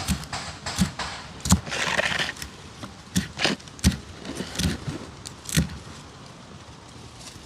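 Knife cutting fish on a board: irregular knocks of the blade, with a short scrape about two seconds in.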